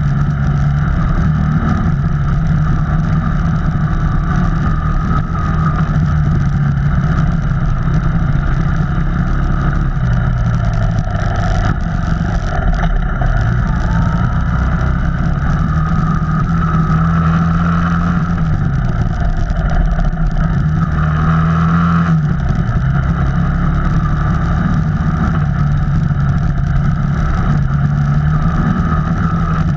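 Off-road vehicle engine running steadily under way, its pitch dipping and rising several times as the throttle changes.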